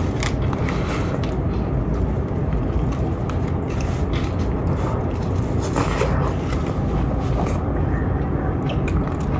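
A steady low rumble runs throughout, with scattered soft clicks and crackles from a person eating.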